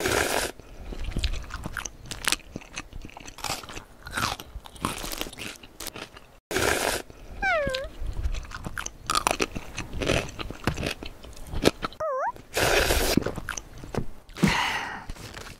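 Close-miked eating sounds laid over a paper-craft feeding scene: rapid wet chewing and crunching bites, irregular and steady. Twice, about halfway and about three quarters of the way in, a short squeaky tone dips and rises in pitch.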